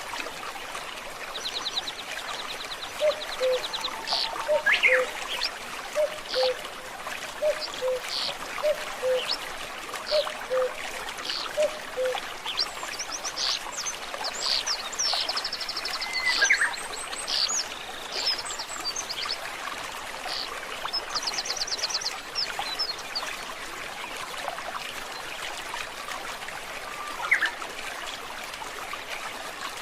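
A forest stream trickling and babbling steadily while several birds sing over it: quick high trills and chirps through the first two-thirds, and a lower two-note call repeated about a dozen times in the first half.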